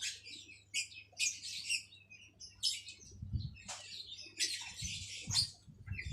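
Jalak kebo (Javan myna) calling in a run of short, harsh, chattering phrases, several a second apart. A few dull low bumps come in the middle.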